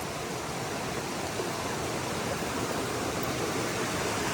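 Creek water running steadily, a constant rush that grows slightly louder near the end.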